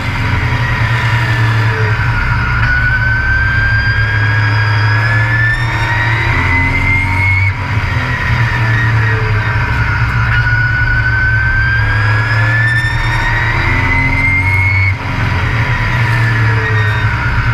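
Onboard sound of a race truck's engine running hard at racing speed, loud and continuous. Its pitch climbs steadily along each straight, then drops sharply with a brief dip in loudness as the driver lifts for the turn. This lap-like cycle repeats about every seven and a half seconds.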